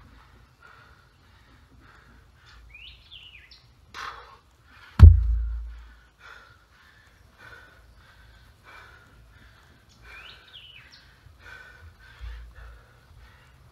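Birds calling in woodland, a few short falling chirps, over a faint sound that repeats about every half second. About five seconds in comes one sharp, heavy thump, the loudest sound, with a short rush of noise just before it.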